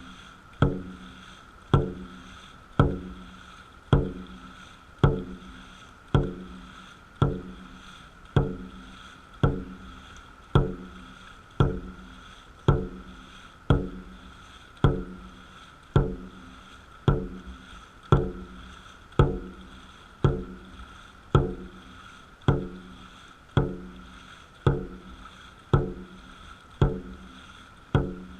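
Dragon boat drum struck in a steady beat, about one hit a second, each hit ringing briefly, setting the crew's paddling pace.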